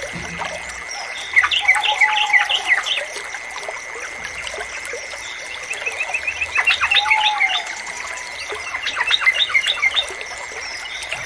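Yellow-vented bulbul (trucukan) singing three short bursts of quick, bubbly chirping notes a few seconds apart, over a steady trickle of running water.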